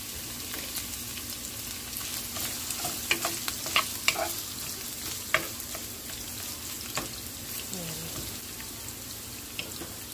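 Julienned carrot sticks sizzling in hot oil in a pan with a steady hiss. A wooden spoon stirs them, giving a scatter of knocks and scrapes against the pan in the middle stretch.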